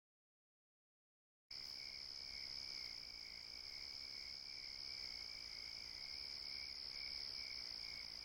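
Dead silence for about a second and a half, then crickets trilling steadily and faintly.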